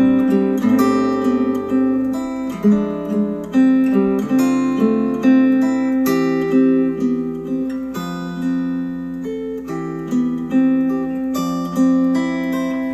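Acoustic guitar music, plucked and strummed, played back through Polk Audio Reserve R200 bookshelf speakers.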